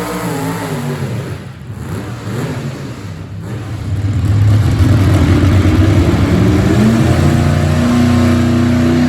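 Gasoline pulling truck's engine at high throttle, dipping briefly twice in the first few seconds, then getting louder and climbing in pitch from about four seconds in as it revs up under load.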